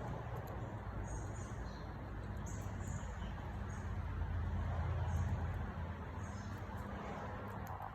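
Outdoor backyard background with a steady low hum, and faint short high-pitched bird chirps every second or two.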